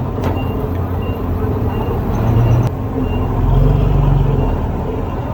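Heavy diesel earthmoving machine engine running, swelling louder for a second or so past the middle, with a reversing alarm beeping about once every three quarters of a second. A single sharp click about halfway through.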